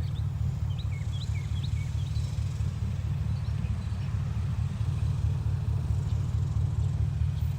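Steady low rumble of wind buffeting the microphone outdoors, with a scatter of short bird chirps in the first couple of seconds.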